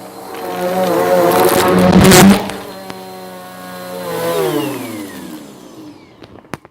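Bissell vacuum cleaner running, with a loud crunch of debris going through the brushroll about two seconds in. Then it is switched off and the motor winds down in a falling whine over the next couple of seconds, ending in a click.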